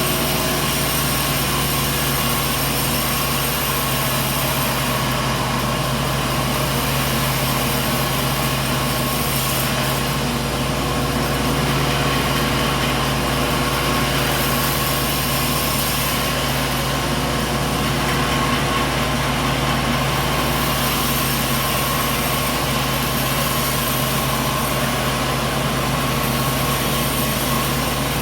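Sawmill machinery running steadily: a constant engine-like hum with level tones and no distinct cuts or impacts.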